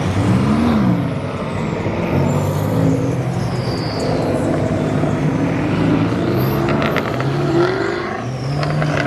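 Car engines revving hard with loud exhausts as cars pull away, the engine pitch rising and falling again and again with several engines overlapping.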